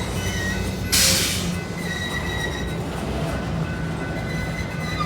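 Freight train being switched: a locomotive's diesel engine running steadily under thin, high steel-wheel squeal as the cars roll slowly. A short, loud burst of hiss comes about a second in.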